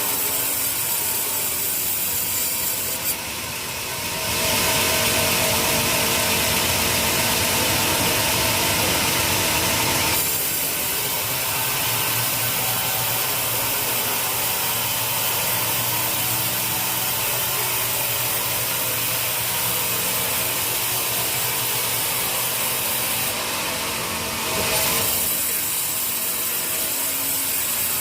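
Sawmill saw running and cutting through teak wood: a continuous grinding, rasping noise that gets louder about four seconds in and changes character around ten seconds and again near the end.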